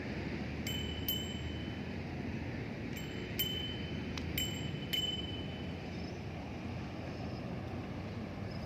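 Bicycle bell dinging, short bright rings in three pairs over the first five seconds, over a steady low rumble.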